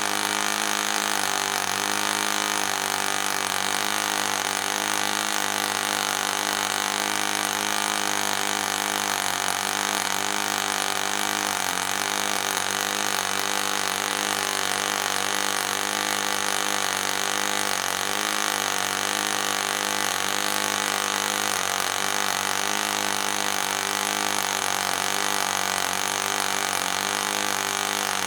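ENYA 09-III model glow engine, a small two-stroke, running steadily at high speed with its propeller spinning; the pitch wavers slightly.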